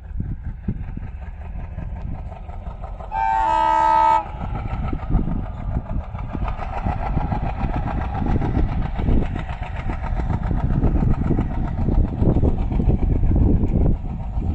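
ALCO diesel locomotive passing with its engine chugging. About three seconds in, it sounds its multi-tone horn once for about a second. The engine grows louder as the train comes closer.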